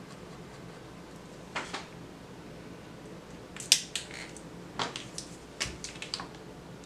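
A series of about eight short, sharp clicks and taps, the loudest near the middle: hard coloured pencils being handled, knocking together and set down on a table.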